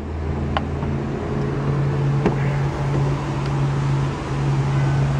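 Car door soft-close latch on a 2011 BMW 535i being demonstrated: a sharp click as the door reaches its latch, then lighter clicks as the closer draws it shut, over a steady low hum.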